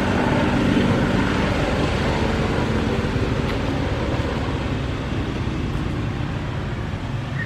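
Steady low rumble of a motor vehicle's engine, with a humming tone that fades after the first second or so.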